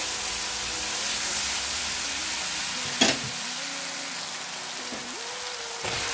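Ginger-garlic paste sizzling in hot oil in a steel karahi while a spatula stirs it, with one sharp knock about three seconds in. Right at the end the sizzle jumps as sliced onions are tipped in.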